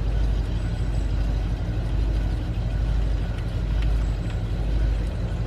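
A steady low engine rumble, like a vehicle idling, with a few faint clicks over it.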